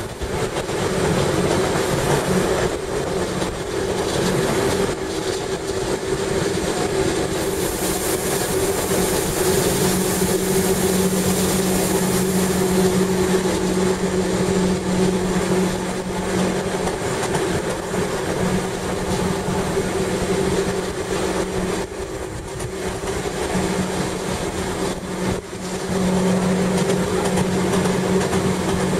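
Gornergratbahn rack-railway train heard from inside the carriage, running downhill with a steady drive hum of two held tones over wheel and rack noise. A brighter hiss joins for a few seconds about a quarter of the way in.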